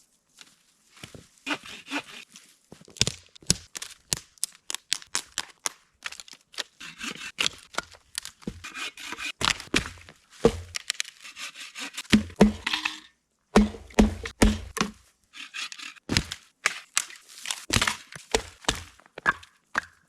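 Dry sticks and dead branches being snapped and broken for firewood: a rapid run of sharp wood cracks, with a few heavier knocks in the middle.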